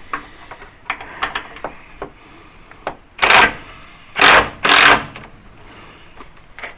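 Metal tools and sockets clinking, then three short bursts of rapid mechanical rattling from tools worked on the step's bolts, the last two close together.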